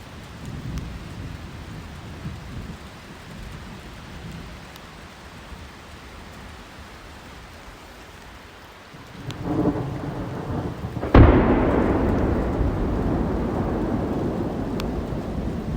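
Heavy rain falling steadily under low rumbling thunder. About nine seconds in the thunder swells, and two seconds later a sudden sharp crack of a close lightning strike sets off a long rolling rumble that fades slowly.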